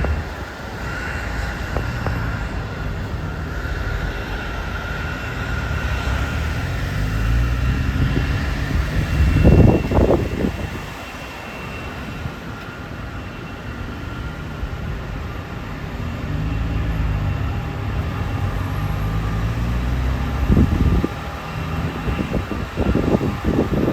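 Jet airliner passing, a steady engine rumble with a faint whine that swells and fades, loudest about a third of the way in. Wind buffets the microphone about ten seconds in and again near the end.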